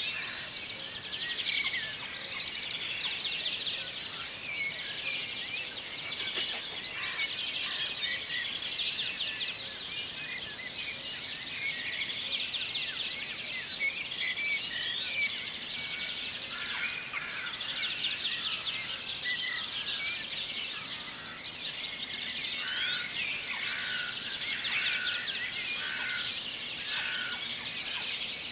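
Morning chorus of many birds singing at once: dense, overlapping chirps and calls with no break.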